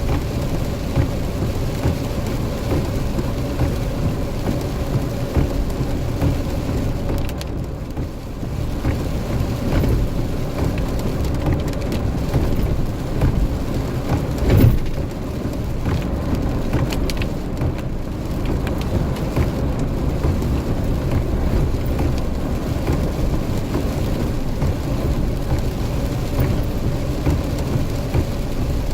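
Jeep driving on a rain-soaked road: steady engine and tyre rumble with the hiss of water spray from the tyres, and a single thump about halfway through.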